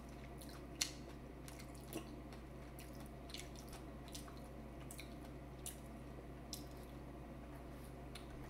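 Faint wet chewing and mouth clicks of someone eating pineapple coated in butter sauce, with a few sharper clicks about a second and two seconds in.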